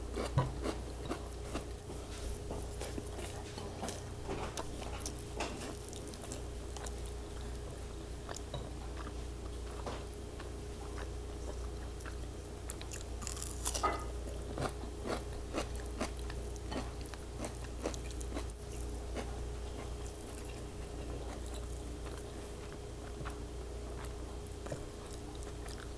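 Close-miked eating sounds: a whole raw tomato being bitten into and chewed, with many short wet clicks and smacks and a denser burst about fourteen seconds in. A faint steady hum runs underneath.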